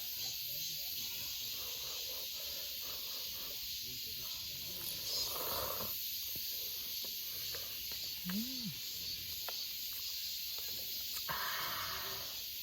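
Steady high-pitched insect chorus in a summer forest, with two short slurping sounds about five and eleven seconds in as cup ramen is eaten.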